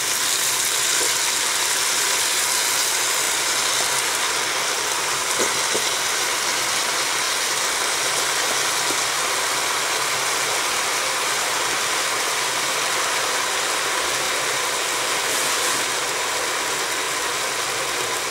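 Food sizzling steadily in the pot of a Cookeo electric multicooker in browning mode. The sizzle softens a little about four seconds in.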